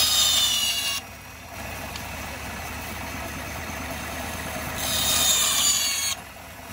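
A miniature railway train running, with a steady rumble and two high-pitched metallic squeals of about a second each, one at the start and one about five seconds in, both cutting off abruptly.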